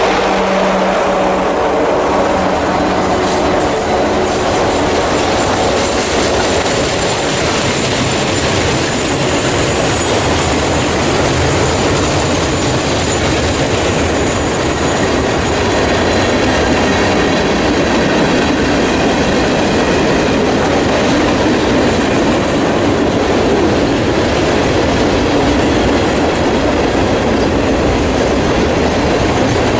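Freight train rolling steadily past: the cars' wheels clack over the rail joints, with thin, high wheel squeal in the first half.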